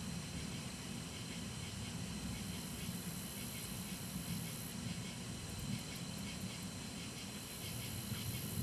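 Thunderstorm ambience: a steady hiss with a low, continuous rumble underneath, and a faint steady high tone throughout.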